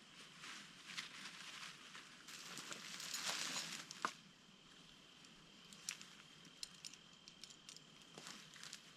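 Faint rustling and crackling of dry brush being handled, with a louder rustle about two to four seconds in and a scattering of small sharp snaps and clicks after it.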